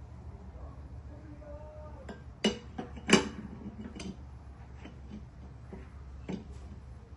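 Metal tools and parts clinking and knocking during mower spindle work: a handful of sharp clanks, the loudest about three seconds in with a short ring, over a low steady hum.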